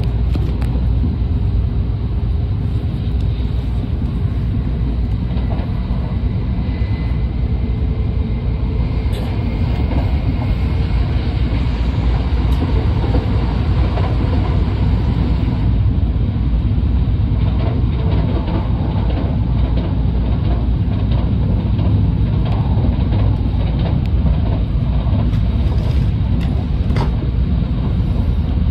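Shinkansen bullet train accelerating, heard from inside the passenger cabin: a steady low rumble of the running train with a faint whine during the first ten seconds or so, growing slightly louder about halfway through.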